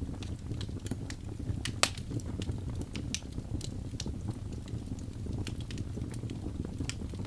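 Fireplace fire crackling: irregular sharp pops and snaps over a steady low rumble, with one louder pop about two seconds in.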